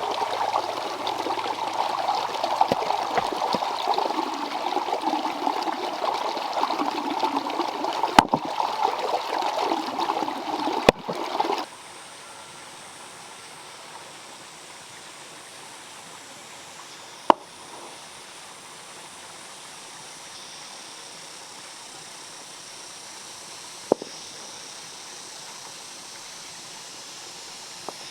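Water running and splashing steadily for about the first twelve seconds, then cut off suddenly. What follows is a quiet, steady background with a few single sharp clicks.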